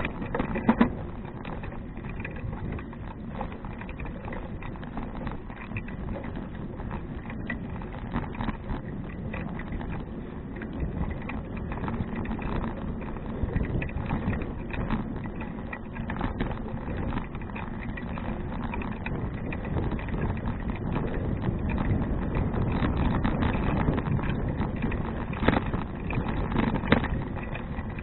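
Riding noise from a Fuji Touring bicycle: a steady rumble of tyres rolling over the path with a constant light rattle, and a few sharp knocks, about half a second in and twice near the end.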